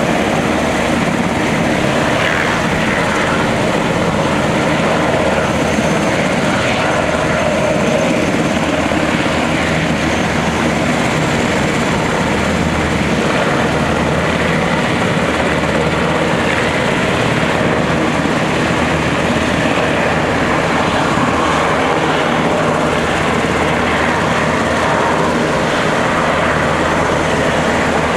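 Helicopter's turbine engine and rotor running loud and steady.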